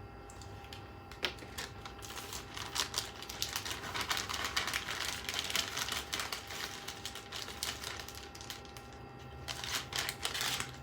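Rapid, dense clicking and rattling of small hard parts being handled while fitting PC case and fan parts, busiest from about two to seven seconds in and again briefly near the end.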